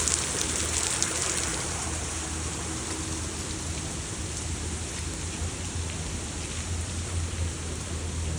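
Heavy rain from a hurricane falling steadily, an even hiss of rain on surfaces, with a steady low hum underneath.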